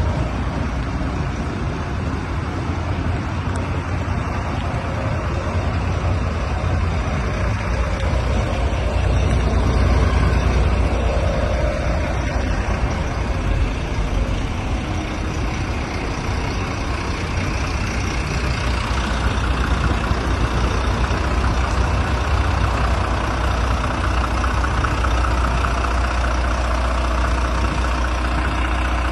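Volvo FM 300 truck's diesel engine running steadily, a low even engine sound with no revving.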